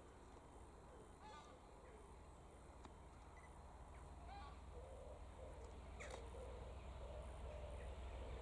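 Faint birds calling in short, repeated phrases, over a low rumble that slowly grows louder as a distant train approaches.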